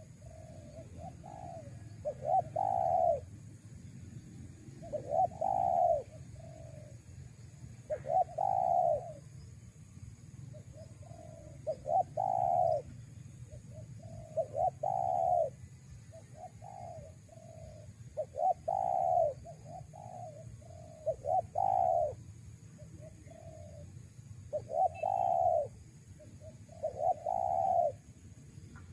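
Spotted dove cooing over and over, about nine phrases, one every three seconds or so, each a few short soft notes running into a longer, louder coo.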